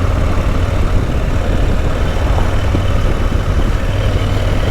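Adventure motorcycle riding at a steady pace: the engine runs with a constant low hum under a heavy, even rush of wind and road noise.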